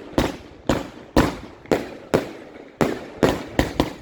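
Multi-shot firework cake firing a rapid series of sharp bangs, each trailing off briefly, about ten in all, coming faster near the end.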